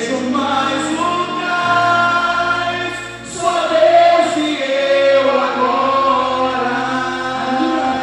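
Gospel worship song sung by a choir of male and female voices over a steady instrumental backing, with long held notes.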